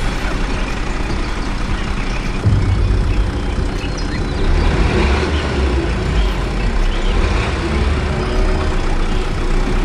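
Steady low engine rumble of a heavy vehicle, louder from about two and a half seconds in.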